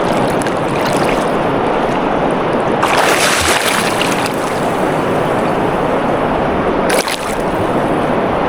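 River water rushing steadily, with louder, hissier surges about three seconds in and again around seven seconds.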